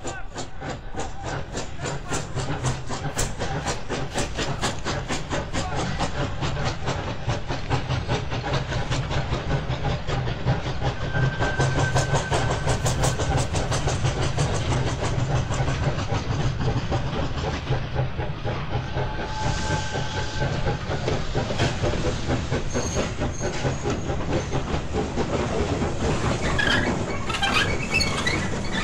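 The Simplon-Orient Express passing, its wheels beating a rapid clickety-clack over the rail joints above a steady low rumble. A few brief high tones sound around the middle, and sharper, higher sounds come near the end.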